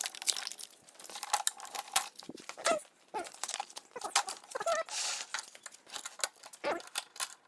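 Packaging being handled: crinkling and tearing with scattered clicks and knocks, and a longer tearing stretch about five seconds in.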